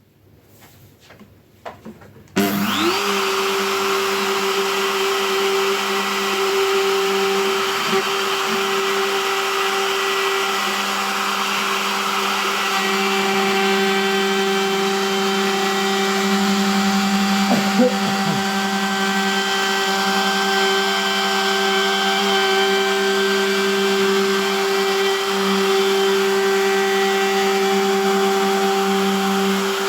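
An electric motor, most likely a woodworking power tool, switches on about two seconds in after a few light clicks and runs steadily at a constant pitch, with a brief knock partway through.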